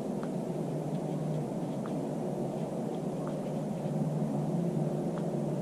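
Steady low background rumble with a few faint, light clicks scattered through it.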